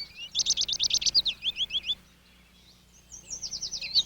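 American goldfinches twittering: two runs of rapid, repeated high chirping notes with a short pause between them.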